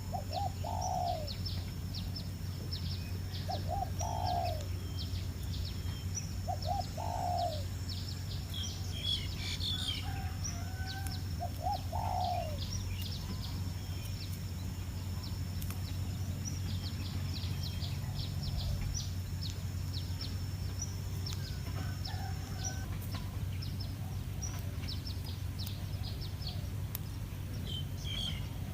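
Wild birds calling: rapid, short, high chirps throughout, with a lower falling call repeated four times in the first half. A thin steady high whine runs underneath and stops about three-quarters of the way through.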